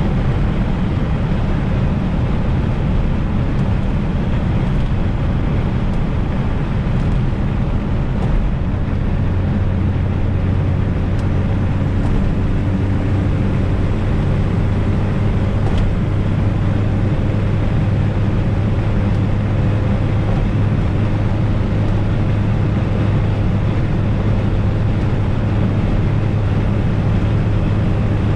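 Fiat Coupe 16V Turbo's turbocharged four-cylinder engine running under way, a steady low drone with road noise, settling into an even note about nine seconds in.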